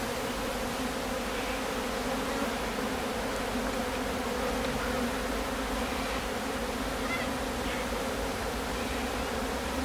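Honey bees from an opened hive buzzing in a steady hum, the sound of many bees in the air together.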